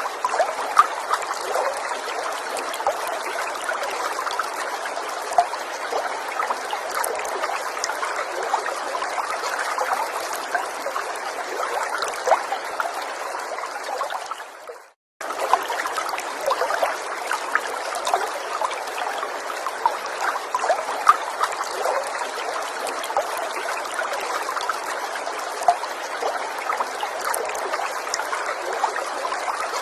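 Small forest stream trickling steadily, with many small splashes. It fades and cuts out for a moment about halfway through, then comes back.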